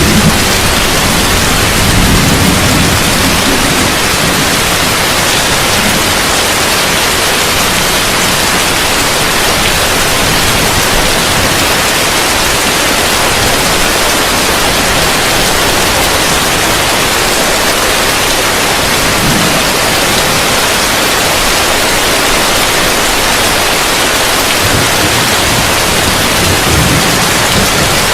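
Heavy rain falling on a roof, a steady dense hiss, with a few brief low rumbles: one about two seconds in, one a little after the middle and one near the end.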